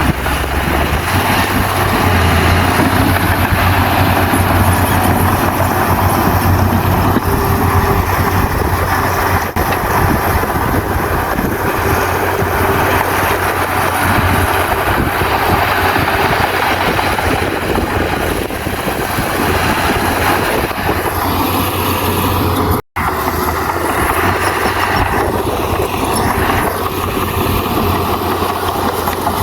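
Komatsu bulldozer's diesel engine running steadily under load, with dense mechanical clatter over a deep, constant engine drone. The sound drops out for an instant about three quarters of the way through.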